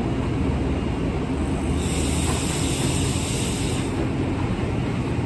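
Kawasaki M8 electric multiple-unit train approaching: a steady low rumble of wheels on rail, with a higher hiss for about two seconds near the middle.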